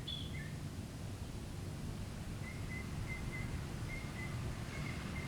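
Outdoor background noise with a low rumble and faint, high bird chirps, cut off suddenly at the end.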